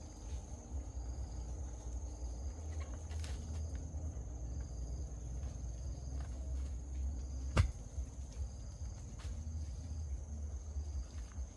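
Steady high insect drone, crickets or similar, over a low rumble, with a faint short chirp repeating about every second. A single sharp knock comes a little past halfway.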